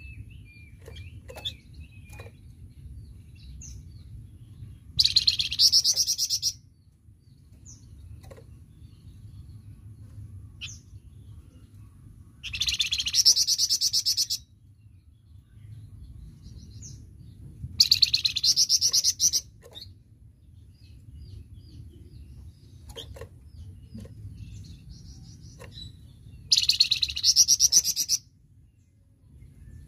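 Flamboyan songbird singing in four loud bursts of fast, rapidly repeated high notes, each about a second and a half long, with soft short chirps between them. This is the 'tembakan' burst song that is prized for training competition birds.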